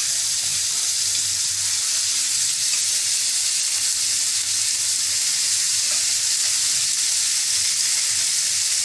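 Freshly added chopped onions sizzling in hot oil in a frying pan, a steady hiss that holds level throughout.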